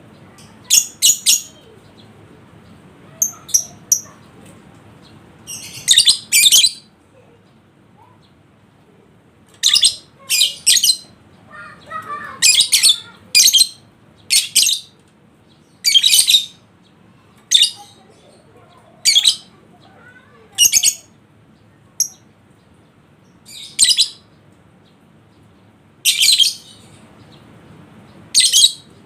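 Lovebird giving short, shrill chirping calls, one every second or two, each lasting about half a second.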